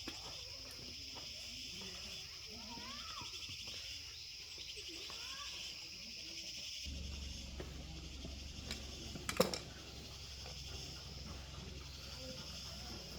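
Steady high buzzing of insects, like crickets, with a few short bird chirps in the first half and one sharp click about nine seconds in.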